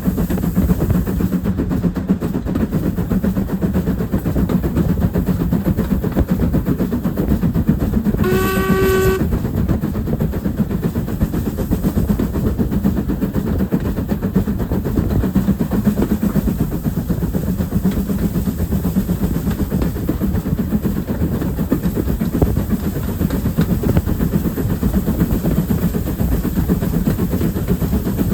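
A train running steadily on the rails, a continuous loud rumble with a low drone. About eight seconds in, a single short whistle sounds on one pitch for about a second.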